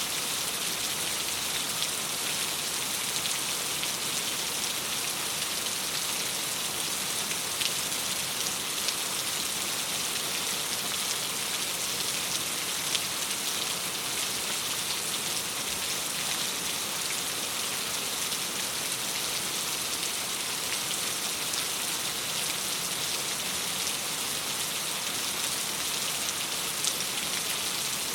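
Steady rain on a window, a dense even hiss, with a few brief faint clicks here and there.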